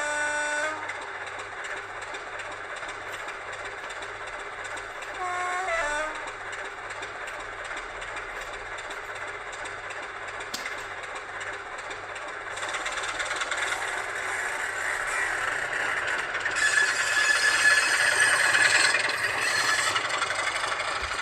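Model-railway sound decoder playing a recorded British Rail Class 25 diesel through the model locomotive's small speaker: the engine runs steadily, the horn sounds two short blasts, at the start and about five seconds in, then the engine revs up from about twelve seconds in with a rising whine, loudest a few seconds before the end and then easing.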